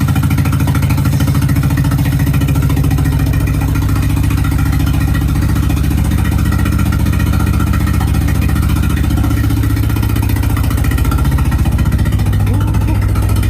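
Nissan 200SX S12's engine idling steadily, running on a freshly uploaded mass airflow sensor K-constant and latency setting in its ECU tune.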